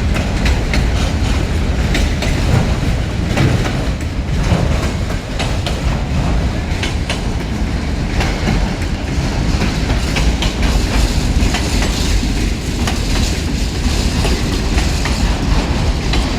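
Freight cars of a long train rolling past in a steady rumble, with wheels clicking over the rail joints again and again.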